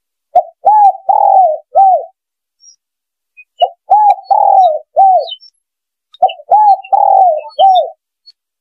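Spotted dove cooing: three phrases of four quick coos each, one phrase about every two and a half seconds, played as a hunting lure call.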